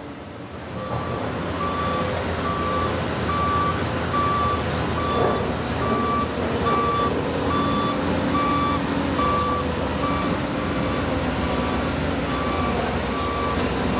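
Heavy machine's backup alarm beeping steadily, a little under two beeps a second, over its diesel engine running; the engine grows louder about a second in.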